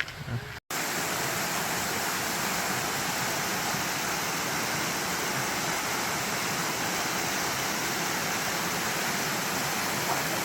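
Steady rushing water noise that starts abruptly about half a second in, after a brief gap.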